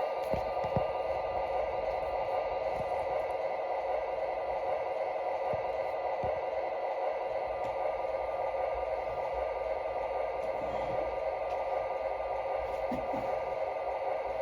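A steady whirring hum with a few faint soft knocks.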